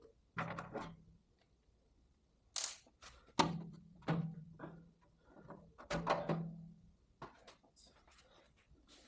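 Carburetor throttle on a 1969 Volkswagen Beetle engine being pulled open and let snap back by hand, giving about five sharp mechanical clicks, with a brief hiss about two and a half seconds in. The throttle is being worked to check that the accelerator pump squirts gas.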